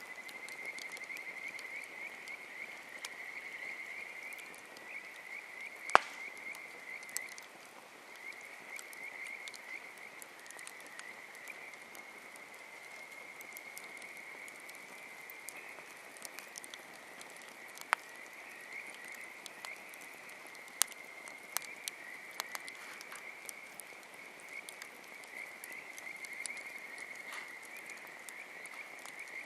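A continuous chorus of frogs trilling, with the quick notes running on without a break. A wood campfire gives a few sharp pops over it, the loudest about six seconds in and others near eighteen and twenty-one seconds.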